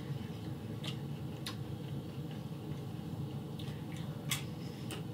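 Close-up eating sounds: wet chewing and a few sharp mouth clicks and smacks, the loudest about four seconds in as a fresh bite is taken, over a steady low hum.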